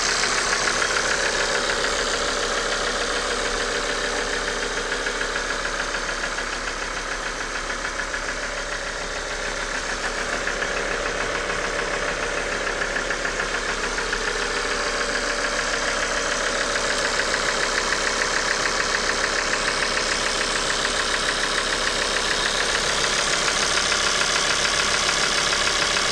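Car engine running with a rapid, steady clacking knock, the sign of a failed oil pump, as the owner found.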